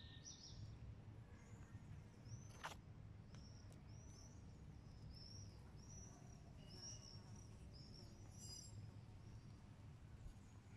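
Faint birdsong: a bird repeating a short high chirp about twice a second over a low outdoor background rumble, with a single sharp click about three seconds in.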